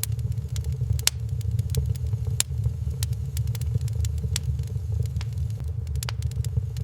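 Wood fire crackling in a fireplace, with sharp, irregular pops over a steady low rumble.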